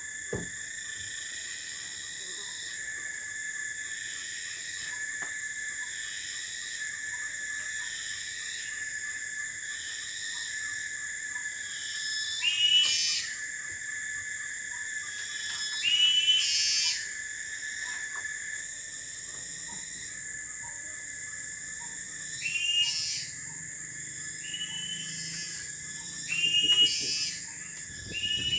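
Tropical forest insect chorus, a steady shrill drone with a regular pulsing overlaid. From about halfway through, a louder short animal call rings out about six times, each under a second.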